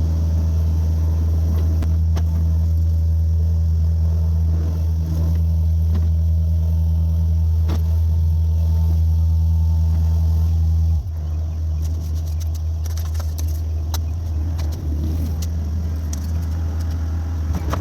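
John Deere 50G mini excavator's diesel engine running steadily. About eleven seconds in it drops lower and quieter, and a few sharp clicks and knocks follow.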